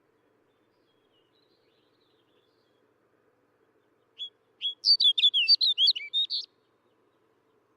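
Snow bunting singing one short, rapid warbling phrase of about a dozen quick notes that swing up and down in pitch, starting about four seconds in and lasting about two seconds. A much fainter bird call comes earlier.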